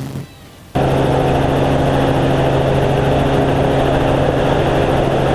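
Helicopter in flight, its rotor and engine droning steadily with a low hum, cutting in suddenly at full loudness about a second in.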